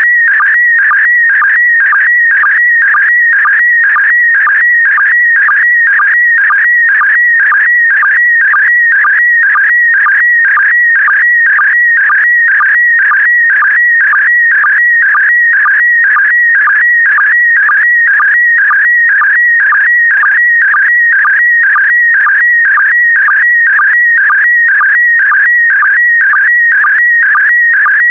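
Slow-scan television (SSTV) image signal in PD120 mode: a continuous warbling tone wavering between roughly 1.5 and 2.3 kHz, broken by a short low sync dip about twice a second. Each repeat carries one scan of the picture, a pair of image lines.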